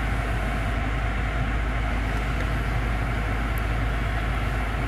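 BMW M5 F10's twin-turbo V8 idling, heard from inside the cabin as a steady low hum with a hiss from the ventilation.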